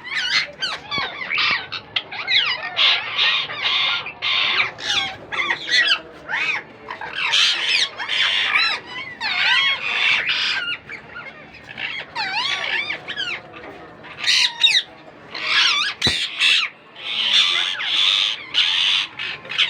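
Ringneck parakeet chicks calling: a near-continuous run of short squawking cries, their pitch bending up and down, one after another with brief pauses.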